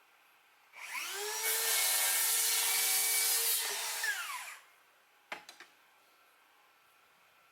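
A power saw spins up, cuts through the end of a wooden board for about three seconds, then winds down and stops, squaring off the board end. A few sharp knocks follow about a second later.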